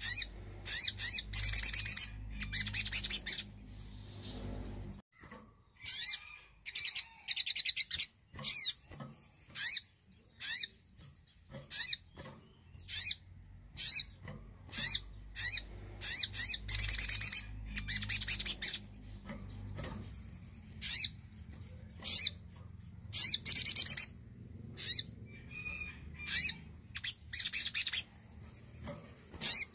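Sogon (sogok ontong) nectar-eating songbird calling in rapid, high-pitched trilled chirps, in short bursts repeated every second or two, with a faint thin whistle between some of them.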